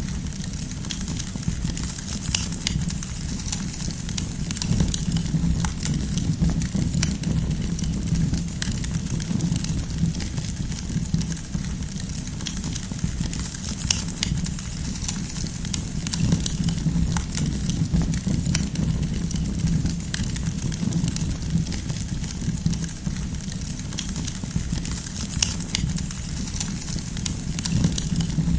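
Wood campfire crackling steadily, with frequent sharp pops and snaps over a low, even rumble of the burning fire.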